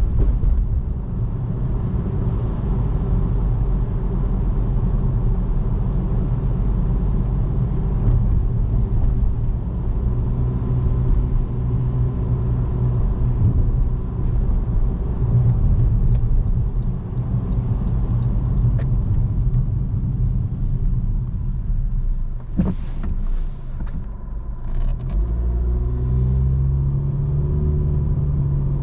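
Car driving on city streets: steady low road and engine rumble. It is broken by a few sharp knocks about three-quarters of the way through, followed by a steadier low hum near the end.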